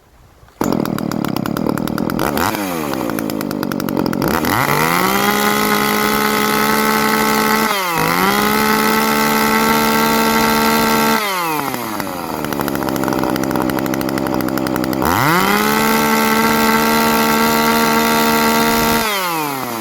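Ported Shindaiwa 390sx two-stroke chainsaw fires up about half a second in and settles to idle. It is then revved to full throttle with no load three times, each time held for a few seconds before dropping back to idle: free-revving to check its top no-load speed.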